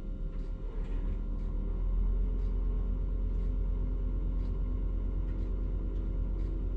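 Crane truck's engine running with a low, steady rumble that grows louder about a second in and then holds.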